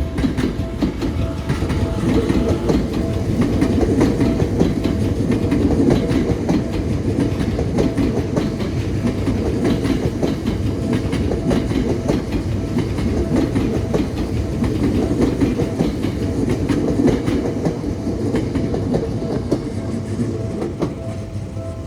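Seibu Railway electric train passing a level crossing: a steady rumble with the clatter of wheels over rail joints, easing off near the end. The crossing's warning bell rings faintly underneath.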